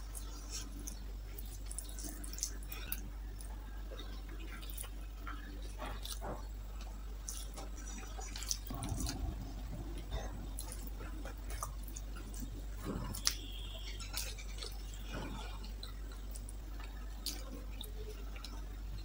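Eating by hand: soft, wet, irregular clicks and smacks of chewing rice mixed with dal, and the squish of fingers kneading the rice on a banana leaf, over a steady low hum.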